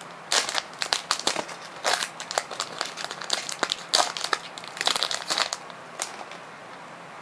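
Booster pack wrapper and paper being crinkled and handled, in irregular crackles that start just after the beginning and stop about six seconds in.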